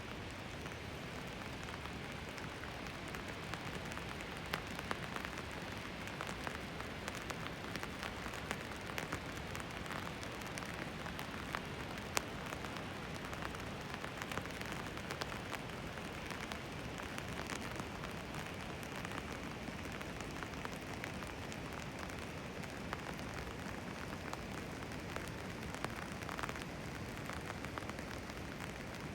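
Steady rain falling, with the clicks of many single drops striking close by.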